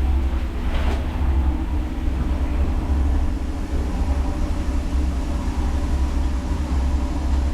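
Sauna boat's engine running steadily under way: a low, even drone with a steady hum.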